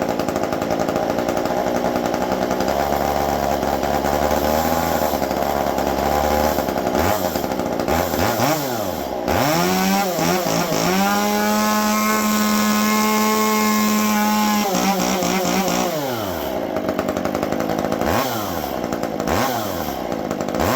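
Stihl 194T two-stroke chainsaw fitted with a handmade prototype exhaust, running at low speed, then revved up and held at full throttle for about four seconds before dropping back. Several more quick revs follow near the end.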